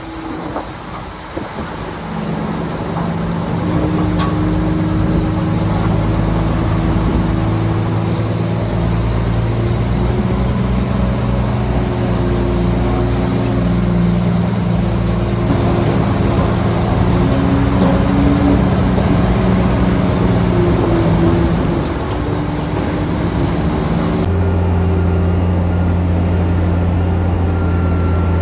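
Heavy diesel engine of earthmoving machinery running under load, with a steady pitched drone that grows louder a few seconds in. Near the end the sound changes abruptly to a steadier low hum.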